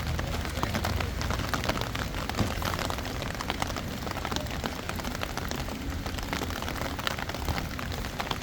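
Steady rain falling, a dense run of small drop ticks over a low rumble.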